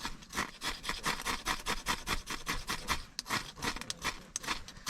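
Ferrocerium fire-starter rod being struck with a scraper in quick repeated rasping strokes, about four or five a second, to throw sparks onto tinder.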